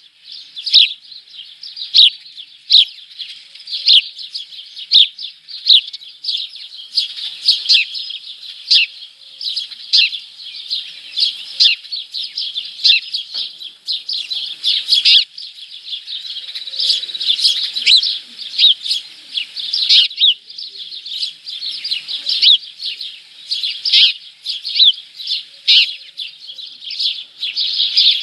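Small birds chirping continuously: rapid, high, sharp chirps, with a loud peak about once a second.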